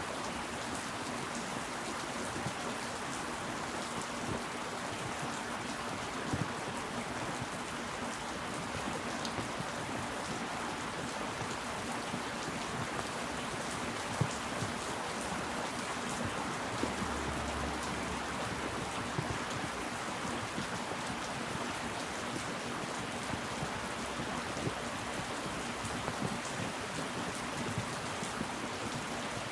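Steady rain falling, with scattered louder individual drops landing close by.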